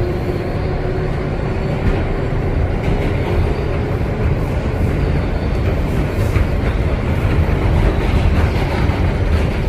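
New York City subway train running underground: a steady, loud rumble of wheels on rail with a faint whine and a few light clicks.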